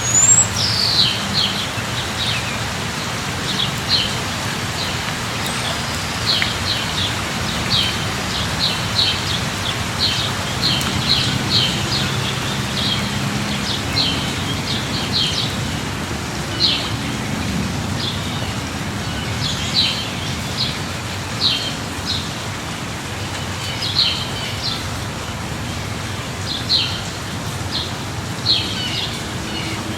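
Steady light rain falling, with short, high bird chirps repeating every second or so throughout.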